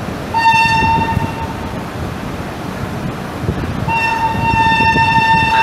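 A train horn sounds two steady single-note blasts: a short one of about a second, then a longer one starting about four seconds in. Under them runs the rumble of the Orient Express passenger coaches rolling past.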